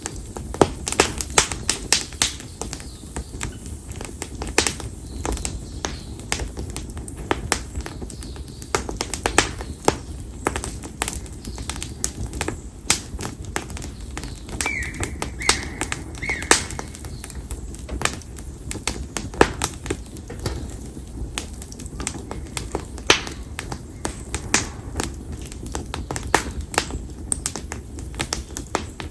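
Konara oak firewood bonfire crackling, with dense, irregular sharp pops and snaps over a low steady rumble of the flames.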